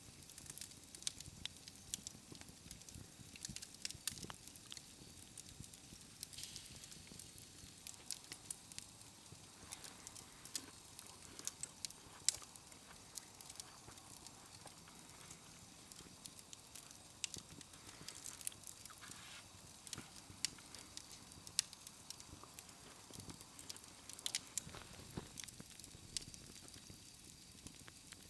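Campfire crackling, with irregular sharp pops and snaps over a faint hiss.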